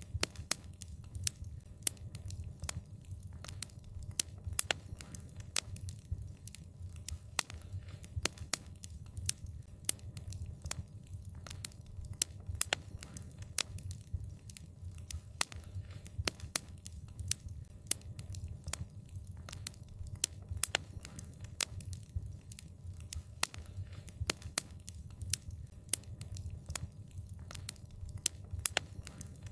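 Wood fire crackling: frequent sharp pops and snaps, several a second, over a steady low rumble of the flames.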